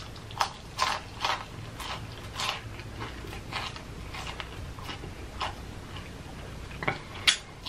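Close-up chewing of a crispy fried chicken piece, the crunchy breading crackling in short irregular crunches. The crunches come thick in the first few seconds, then more sparsely.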